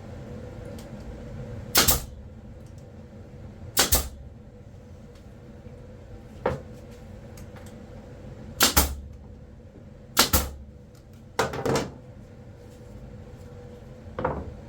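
A series of sharp knocks, about seven and some of them doubled, a second or two apart, over a steady low hum.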